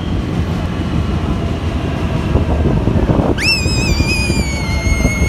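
Passenger train running past with a steady low rumble. About three and a half seconds in, a small child lets out a long, high-pitched squeal of excitement lasting about two seconds.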